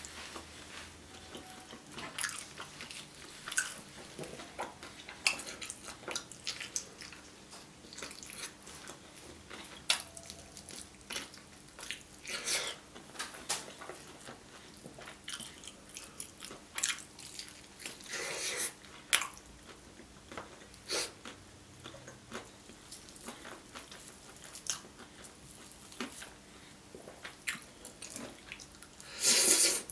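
Close-miked chewing and biting of sauce-coated Korean fried chicken, heard as irregular short smacks and clicks, with a louder burst near the end.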